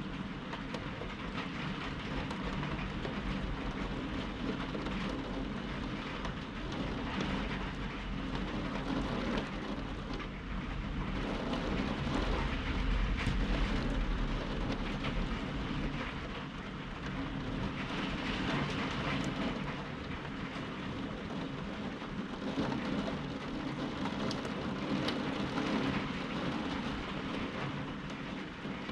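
Steady rain falling during a thunderstorm, with a long roll of thunder rumbling and swelling around the middle.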